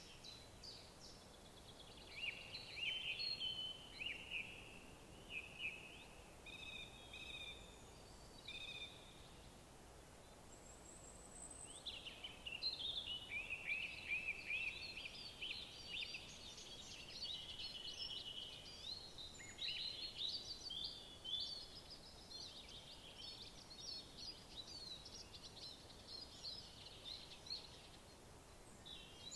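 Several songbirds singing in woodland, short chirping and trilling phrases following and overlapping one another, busiest in the second half. Under them is a faint steady outdoor hiss.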